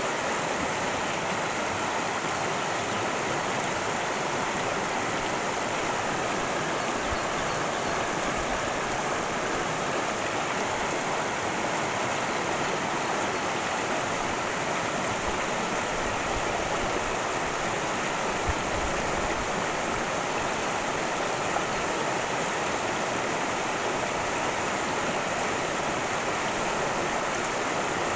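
Steady rush of a cascading creek, water tumbling and splashing without a break.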